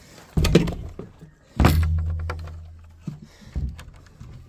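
Two heavy thunks about a second apart, the second the loudest, with a deep boom that rings on and fades over about a second and a half, followed by two lighter knocks.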